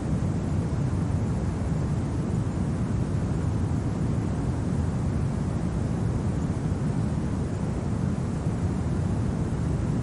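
Steady low rumble of winter wind, an even noise without gusts, clicks or tones.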